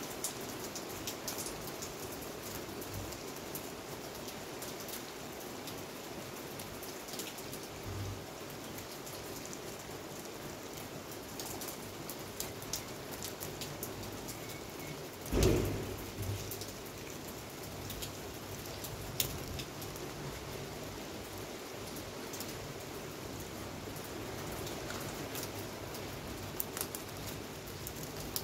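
Heavy rain falling, a steady hiss with many individual drops ticking close by. About halfway through, a single loud low thump dies away within about a second.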